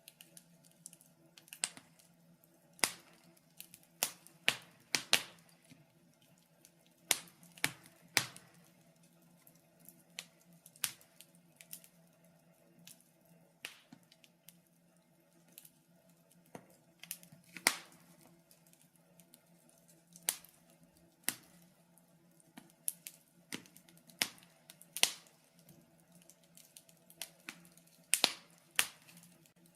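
Wood fire crackling in a fireplace: irregular sharp pops and snaps, a few a second at most, with a faint steady low hum underneath.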